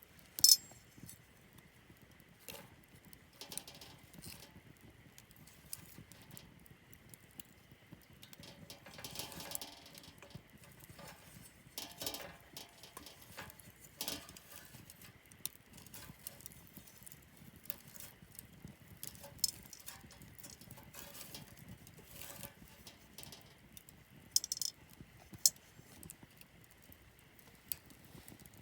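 Wood campfire crackling: irregular pops and snaps, some in quick clusters, with the sharpest snaps about half a second in and again near the end.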